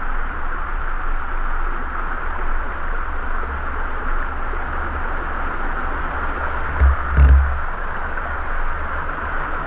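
Steady rushing of a waterfall, with low rumbling buffets on the microphone that swell most strongly about seven seconds in.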